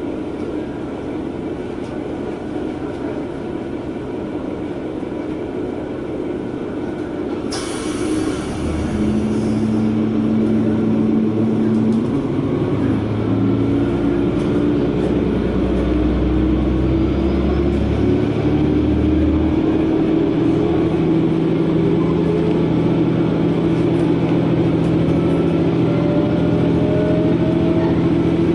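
Diesel railcar pulling away, heard from inside the cabin: a short hiss about eight seconds in, then the engine throttles up and its note climbs steadily as the train gathers speed.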